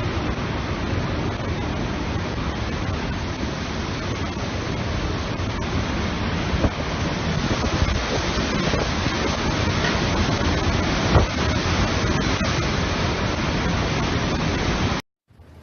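Typhoon wind and rain, a steady loud rush of storm noise buffeting the microphone. It cuts off suddenly near the end.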